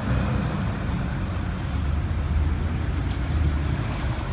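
A heavy truck's diesel engine rumbling low and steady as it rolls past, under an even wash of road noise.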